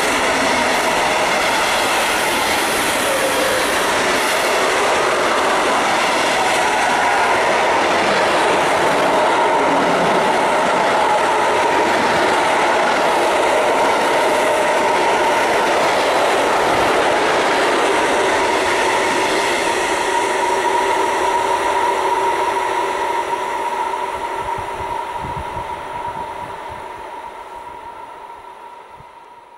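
Freight train of container flat wagons rolling past close by: a steady rumble and clatter of wheels on rail with a steady high ringing tone, fading away over the last several seconds.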